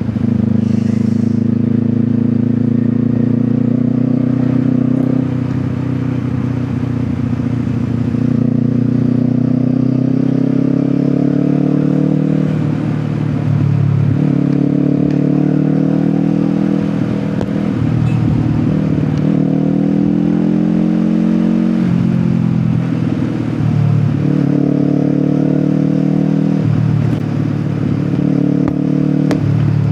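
Kawasaki Ninja 400's parallel-twin engine through an Akrapovic exhaust, riding on the road: the engine note climbs steadily in pitch, then drops sharply at each gearshift, over and over as the bike speeds up, eases off and pulls again.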